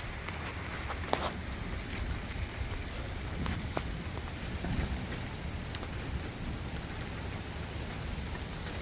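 Heavy rain of big, cold drops pouring down steadily, with scattered sharp taps of drops landing close by.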